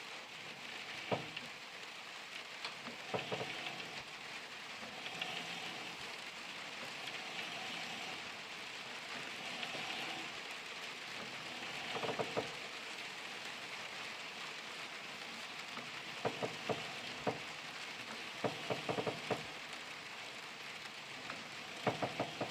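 A steady soft hiss, with scattered light knocks and clanks in small clusters as the sawmill carriage and head blocks are worked by hand.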